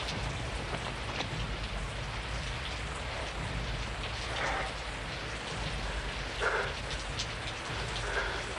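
Steady heavy rain falling and splashing on hard surfaces, with a low rumble underneath. Three short, slightly louder sounds come about four and a half, six and a half and eight seconds in.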